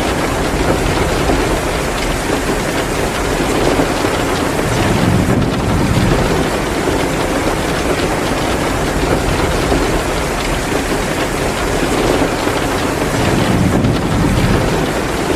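Heavy rain pouring steadily, a dense even hiss, with two low rumbling swells, about five seconds in and again near the end.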